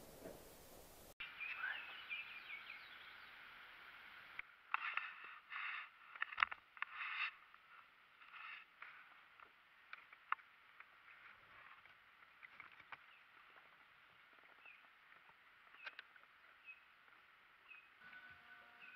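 Faint outdoor ambience on open water: birds chirping and calling now and then, with a few light clicks and knocks.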